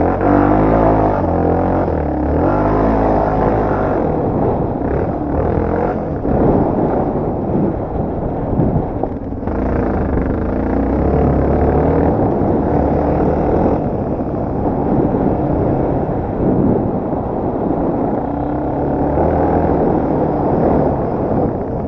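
Dirt bike engine running under load, its pitch rising and dropping in steps as the rider works the throttle and shifts gear, over rough riding noise.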